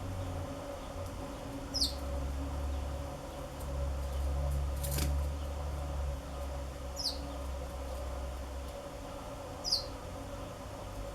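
Black-throated canary giving three short, high chirps a few seconds apart, each sliding quickly downward. A single sharp click comes near the middle, over a steady low hum.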